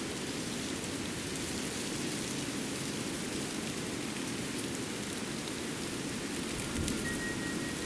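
Steady outdoor water noise, an even rushing wash with faint scattered high ticks. Near the end there is a soft low thump and a brief, faint, high steady whistle.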